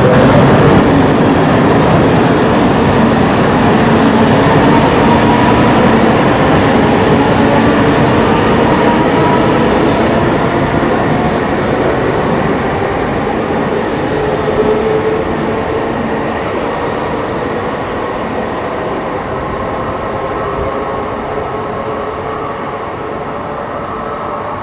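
Shinkansen train running and pulling away along the station track, its rumble and faint motor whine gradually fading as it recedes.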